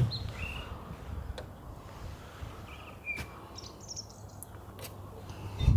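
Birds chirping here and there, a few short high calls over a steady low rumble, with a few faint clicks; a brief thump at the very start as the bonnet comes up.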